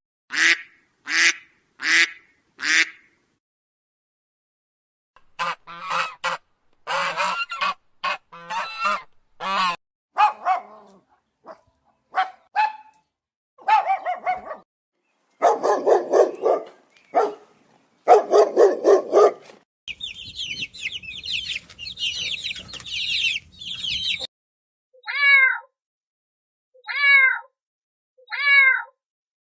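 Farm bird calls: a string of short honking and squawking calls in separate bursts with dead-silent gaps between them, a stretch of high, busy chirping about twenty seconds in, and three short calls near the end.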